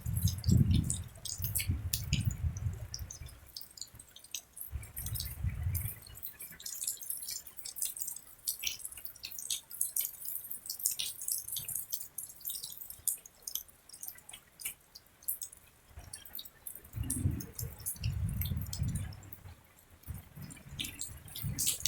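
Rain dripping, with many separate drops ticking at irregular intervals, and low rumbles coming and going, at the start, around five seconds in and again near the end.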